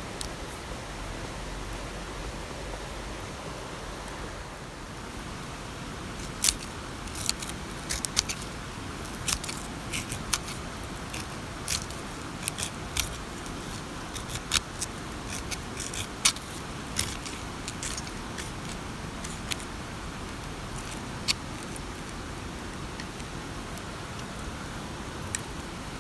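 Steady rain hiss, with a scattering of sharp clicks and taps from about six seconds in until about twenty seconds in.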